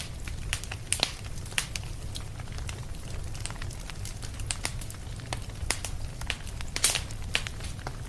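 Wood fire in a fireplace crackling: irregular sharp crackles over a steady low rumble, with one louder crack about seven seconds in.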